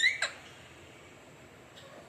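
Alexandrine parrot giving one short rising call right at the start, followed by a sharp click, then only faint background.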